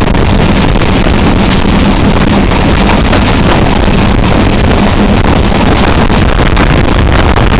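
Loud, steady rushing of a passenger train running at full speed, heard at the coupling just behind an HGMU-30 diesel-electric locomotive: wheels on rail and track noise mixed with rushing air. There is a low hum underneath and wind buffeting the microphone.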